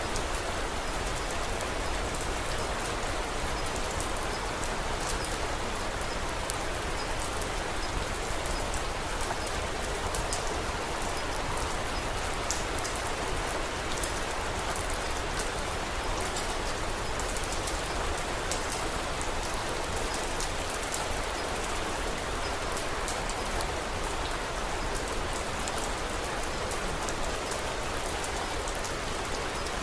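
Steady rain falling, with faint crackles of a wood fire scattered through it.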